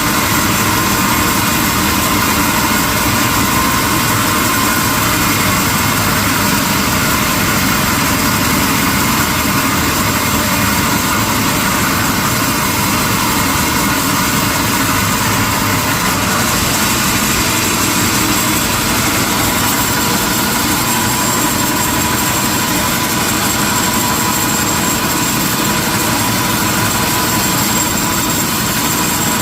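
Sawmill machinery running steadily: a continuous mechanical drone with a faint high whine held at one pitch.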